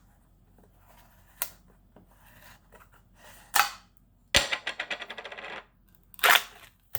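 Handling of a plastic Talenti gelato jar: a few separate clicks and knocks, then a sharp knock followed by a quick run of about a dozen clicks lasting just over a second, like its screw lid being twisted open.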